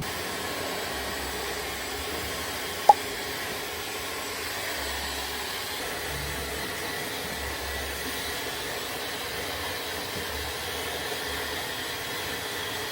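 A steady rushing noise, even throughout, with one sharp click about three seconds in.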